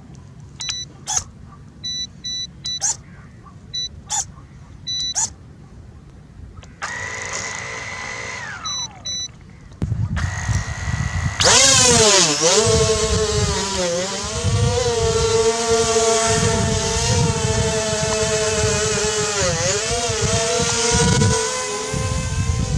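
Short electronic beeps and clicks as the XK X450 Aviator RC plane and its transmitter power up. About halfway through, its three brushless motors spin up to a loud propeller whine whose pitch dips and rises with the throttle.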